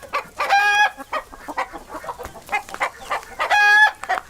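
Hen clucking in quick short notes, with two longer drawn-out calls, one about half a second in and one near the end.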